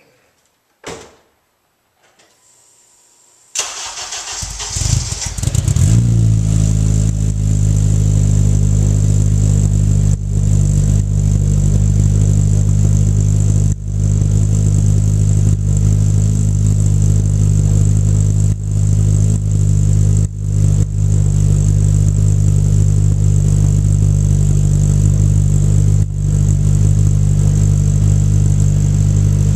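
Car engine with a newly fitted exhaust cranking over about three and a half seconds in, catching about two seconds later, then idling steadily with a low exhaust note.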